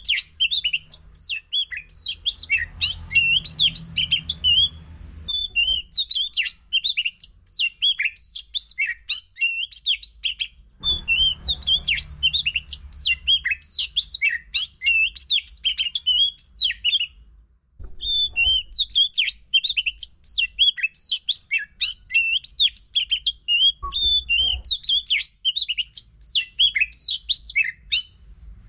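Oriental magpie-robin (kacer) singing a fast, unbroken run of varied whistles and chirps, with brief pauses about every five or six seconds. This is a loud 'gacor' song used as a bait recording to set a silent kacer singing.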